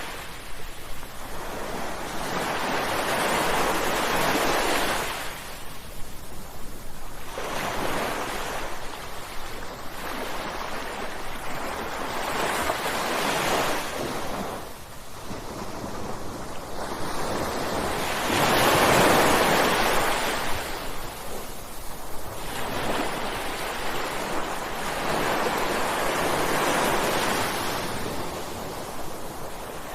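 Ocean waves breaking on a shore, coming in slow surges that rise and fall every several seconds, the loudest about two-thirds of the way through.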